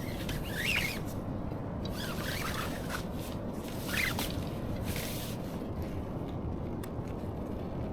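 Steady low rush of wind and sea, with short rustling scrapes every second or so, like fabric being handled.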